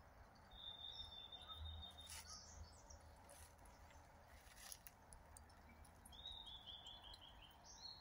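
Faint forest birdsong: a long thin high whistle near the start, then near the end a quick run of six or seven short notes dropping slightly in pitch and a rising note. A few soft clicks fall between the calls.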